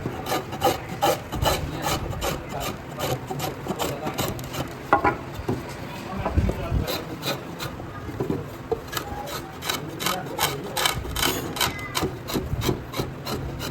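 Rasping strokes of a hand tool on wood, quick and repeated at about three a second, as the wood of a cricket bat is shaped by hand.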